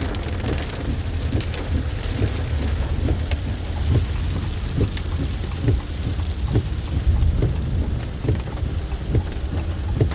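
Rain hitting a car from inside the cabin, as many scattered taps over the low, steady rumble of the car driving.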